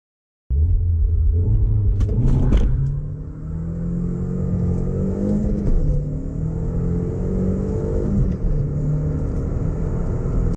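Volkswagen Golf Mk4 petrol engine accelerating hard through the gears: the engine note climbs, then drops back at gear changes about three seconds in, near six seconds and again near eight seconds. A few sharp clicks come around two seconds in.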